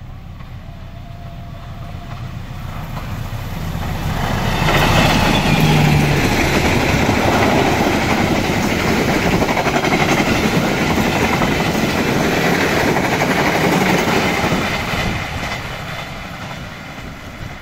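Indonesian diesel locomotive hauling passenger coaches as it approaches, passes close by with engine and wheel-on-rail noise, then fades as the coaches roll away.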